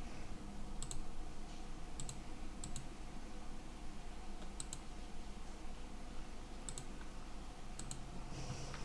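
A few faint, sharp clicks, several of them quick double ticks, spaced irregularly a second or two apart over a low steady hum.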